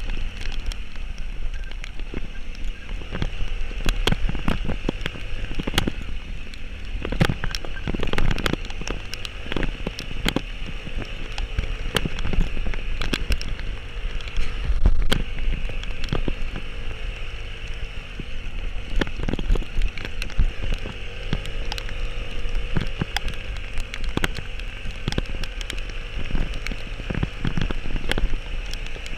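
Heavy rain with many sharp drop hits close to the microphone, over a steady low rumble.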